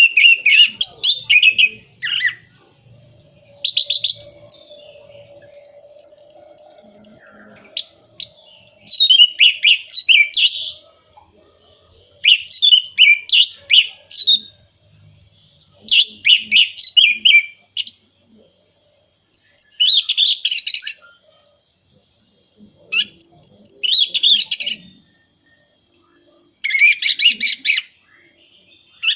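Orange-headed thrush singing in loud, varied phrases of about one to two seconds each, with short pauses between them, about ten phrases in all.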